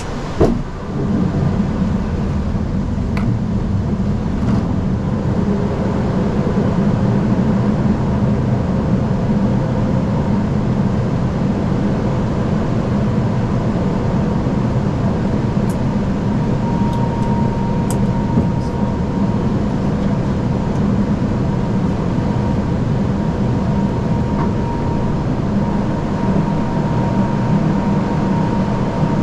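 Steady flight-deck noise of an Airbus A340-600 on approach: airflow and engine hum with a low rumble and a faint thin whine. A sharp click sounds just after the start.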